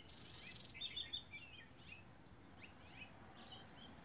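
Faint outdoor background with small birds giving a few short, high chirps now and then.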